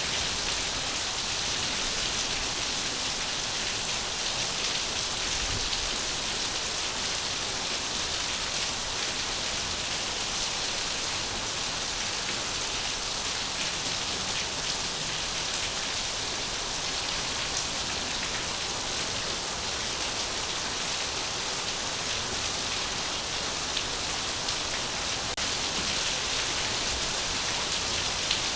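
Steady rain falling, an even hiss with faint scattered drop ticks that never lets up.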